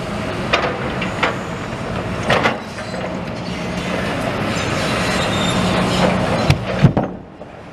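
A heavy vehicle passing with a steady hum and rumble, with metallic clanks and squeals. It grows louder and then cuts off suddenly about seven seconds in.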